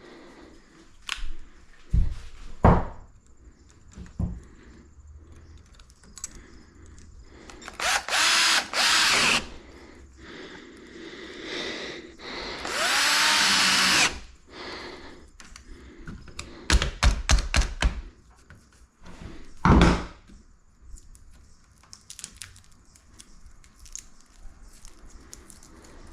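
A power drill runs in short bursts: twice briefly, then once for over a second with its whine rising and falling. Knocks and a quick run of clicks come between the runs.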